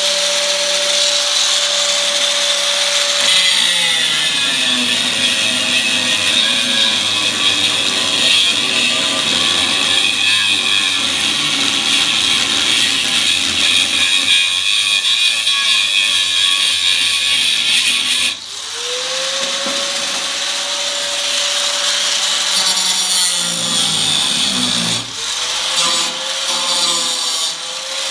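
High-speed handheld power tool working the body metal. It spins free with a steady whine, drops in pitch and goes rough and noisy for a long stretch as it bears on the metal, spins back up after a brief pause, then loads down and frees up again near the end.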